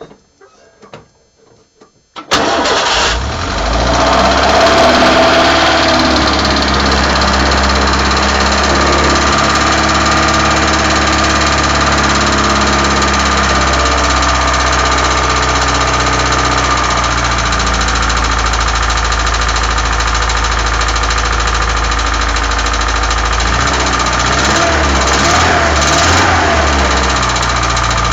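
UZAM four-cylinder petrol engine starting about two seconds in, then running steadily at idle with a brief rev near the end; the engine has a knock.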